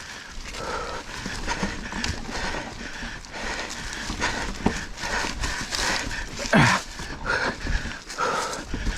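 Full-suspension mountain bike clattering over rocky trail: a steady rattle of tyres, chain and frame knocking over rock, with a low rumble under it.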